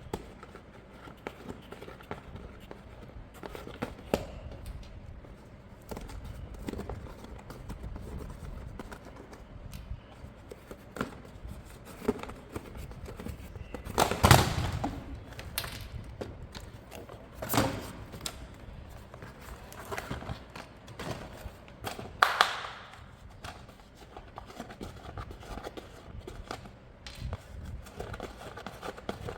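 Hands handling a boxed remote-control toy and its plastic packaging: scattered taps, knocks and rustles, with a few louder clunks about halfway through and twice more after.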